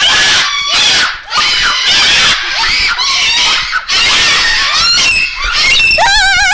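Birds screaming loudly, harsh calls overlapping almost without a break. About six seconds in comes a wavering, warbling call.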